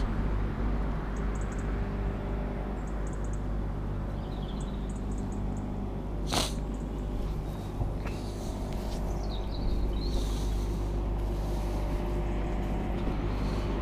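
Steady low mechanical rumble with a constant hum, like an idling engine or running machinery. A single sharp click comes about six seconds in.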